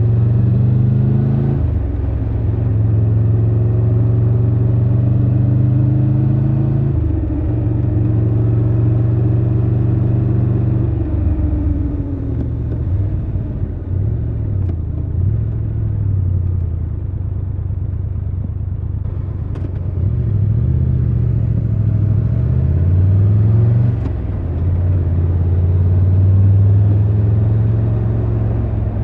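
Triumph Tiger 1200 Rally Pro's three-cylinder engine pulling through the gears while riding. The pitch rises and then drops at each upshift, three times in the first eleven seconds. The engine runs low and uneven for several seconds mid-way, then climbs again and settles to a steady cruise near the end.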